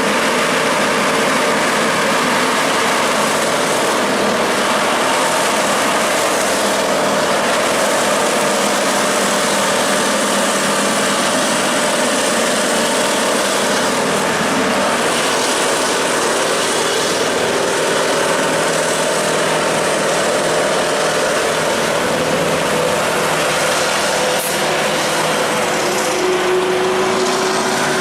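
Truck engine running steadily under load on a climb, its tone shifting about halfway through and again near the end.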